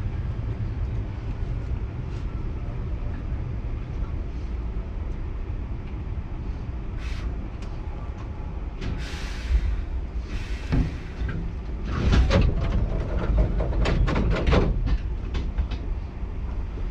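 Hankyu 7000-series electric train running, heard from inside the front car: a steady low rumble of wheels on rail. A couple of short hisses come around the middle, and a quick run of sharp clacks comes about twelve seconds in as the wheels cross rail joints or points.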